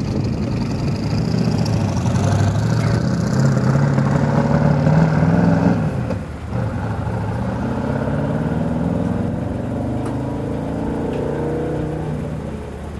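Mosler supercar's twin-turbocharged 427 cubic-inch LSX V8 accelerating away. Its pitch climbs for about six seconds, drops sharply at a gear change, then climbs again while growing fainter near the end.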